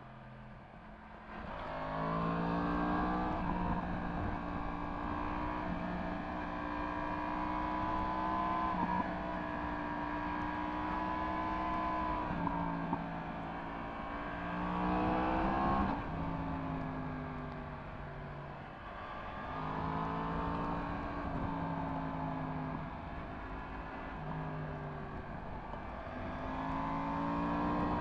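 Yamaha MT-10 SP's crossplane inline-four engine through an Akrapovič exhaust, under way: its revs climb and drop again and again as the rider accelerates, shifts and rolls off, with a noise haze of wind and road underneath. The engine is quieter for the first second or so, then picks up.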